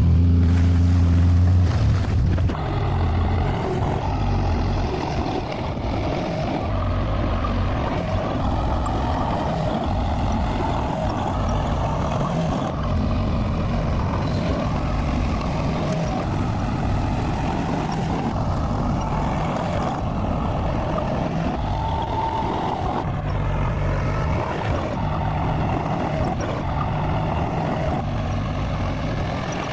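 Bulldozer's diesel engine running, with a loud deep hum for the first two seconds that drops away about two and a half seconds in, then a steady working drone.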